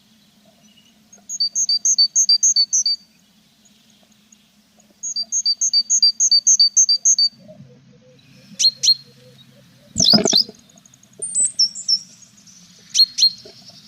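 Tits at a nest box giving bouts of rapid, evenly repeated high chirps, two of them in the first seven seconds. About ten seconds in there is a sudden loud knock with a falling call, followed by a few short sharp calls.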